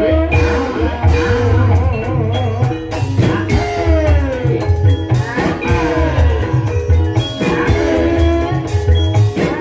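Banyumasan gamelan music (gending ebeg) playing continuously: kendang drum beats and gong strokes under ringing metallophone notes, with a wavering, gliding melodic line above.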